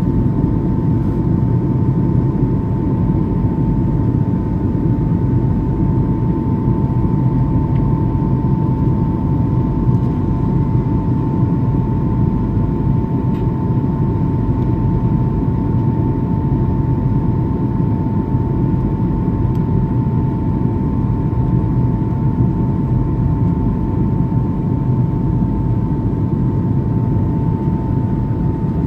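Airliner's engines running steadily during landing: a continuous low rumble with a steady high whine held at one pitch.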